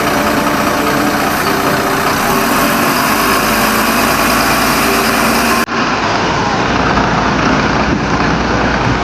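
Tractor engine running steadily, with an abrupt cut a little over halfway through to a duller-sounding recording of the running engine.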